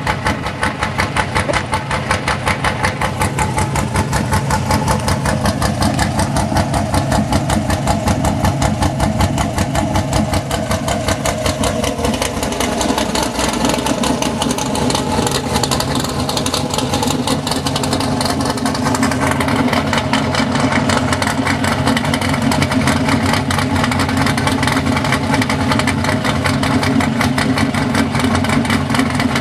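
2004 Pontiac GTO's cammed LS1 5.7-litre V8 idling through a MagnaFlow 3-inch cat-back exhaust with long-tube headers, a steady stream of exhaust pulses, its pitch shifting slightly about halfway through.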